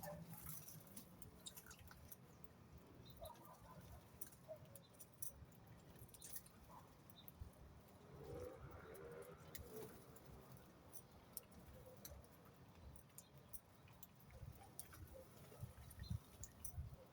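Faint birds: a soft low call about eight seconds in, with scattered small clicks and taps.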